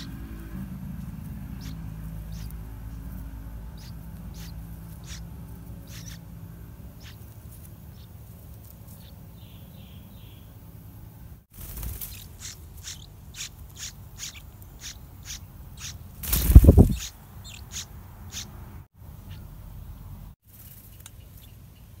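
Yellow-vented bulbul nestlings' short high chirps, scattered at first, then crowding into a quick run of begging calls when a parent arrives with food. A brief loud rustle about two-thirds of the way through.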